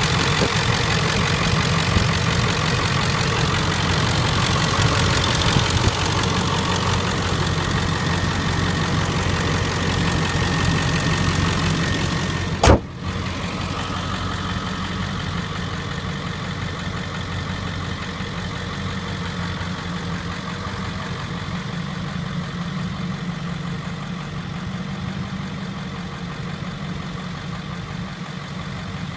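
Ford 7.3 Powerstroke V8 turbo diesel idling steadily. About halfway through there is a single loud slam, after which the engine sounds more muffled and a little quieter.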